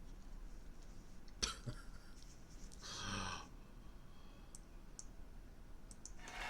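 Quiet room with a few sharp clicks, like a computer mouse being clicked, and one short breathy sound from a person about three seconds in.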